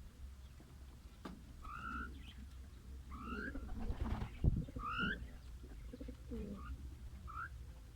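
Caged birds calling: a short upward-sliding chirp repeated about every second and a half, with softer lower calls underneath.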